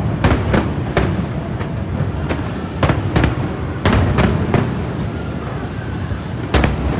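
Aerial fireworks bursting: a fast, irregular run of sharp bangs over a steady low rumble. There is a short lull before one more loud bang near the end.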